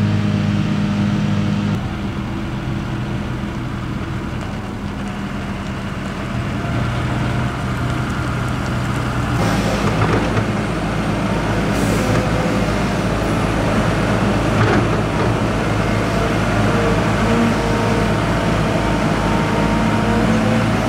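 Heavy diesel farm machinery engines running steadily, the engine note shifting a couple of times, with a few brief sharp hisses or knocks partway through.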